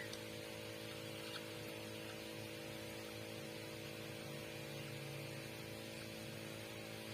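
Steady electrical hum with a light hiss, and a few faint short chirps in the first couple of seconds.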